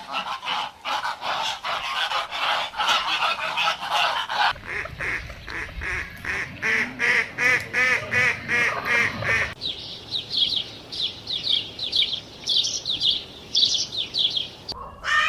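A flock of farm poultry calling in a dense, overlapping chorus. About four seconds in, it gives way to a run of evenly spaced harsh calls, about four a second, over a low rumble. About halfway through, rapid high-pitched cheeping takes over to the end.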